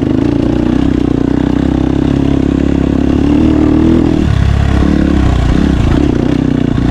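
Husqvarna dirt bike engine running under load. The revs climb from about three seconds in and fall away a second later.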